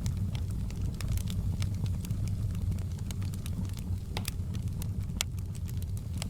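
Wood fire burning in a fireplace: a steady low rumble of the flames with irregular crackles and pops, two sharper pops about four and five seconds in.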